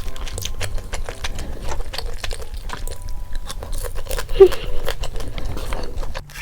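Close-miked crunching and chewing of crispy fried chicken, a dense run of crackling bites, with one short louder squeak-like sound about four seconds in.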